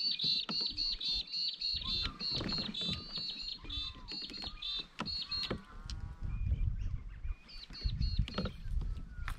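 A bird calling in a rapid series of short, high chirps, pausing after about five seconds and starting again near the end, with a lower warbling call about six seconds in. Scattered knocks and a low rumble sit underneath.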